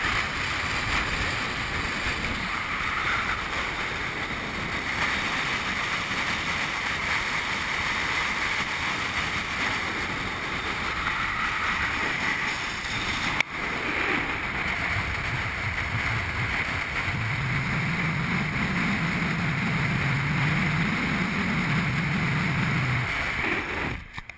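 Steady rushing wind and road noise from a moving vehicle, with a low engine note rising and falling over several seconds near the end.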